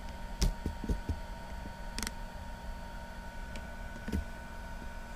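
A few short knocks and clicks as a laptop motherboard and its parts are handled on a bench, over a steady electrical hum.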